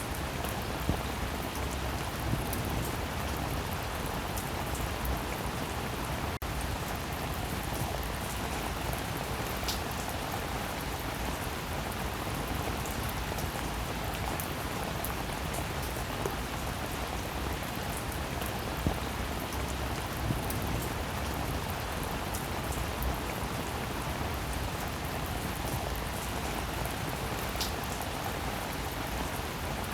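Steady rain falling, with occasional louder drop hits.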